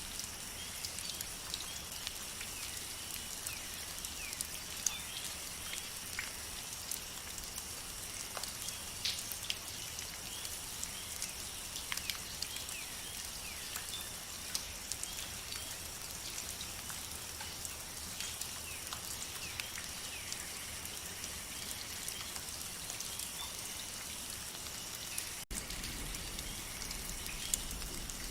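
Rain falling in a rainforest, a steady patter with many separate drops ticking close by, over a steady high-pitched hum. The sound drops out for an instant about 25 seconds in.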